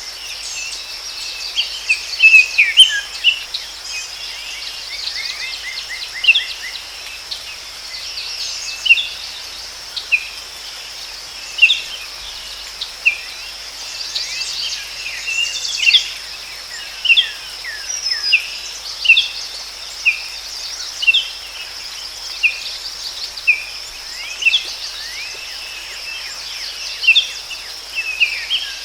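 Forest birdsong: short, sharp chirps, about one to two a second, over a steady high-pitched insect drone.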